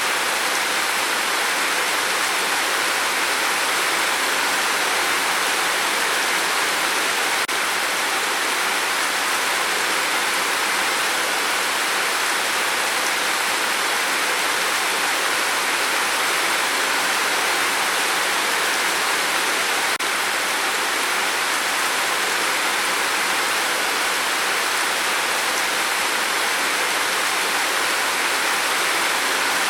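Steady rain falling on a tin roof, a dense, even hiss that does not change.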